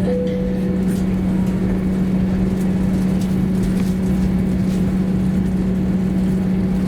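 Steady low hum inside an Airbus A321 cabin before take-off. A cabin chime tone fades out in the first second.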